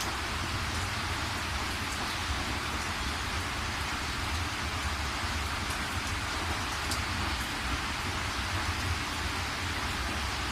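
Steady rain falling, an even hiss of rainfall with a low rumble underneath and now and then a faint drip.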